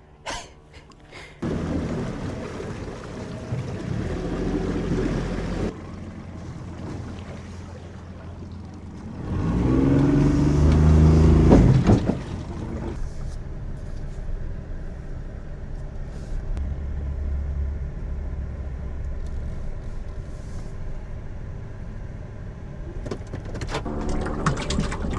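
Boat motor running steadily, getting louder for a few seconds about ten seconds in.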